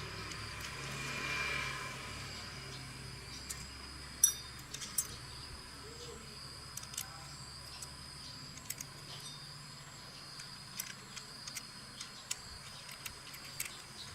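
Scattered light, sharp clicks and taps, one louder click a little after four seconds, over a steady high drone of insects.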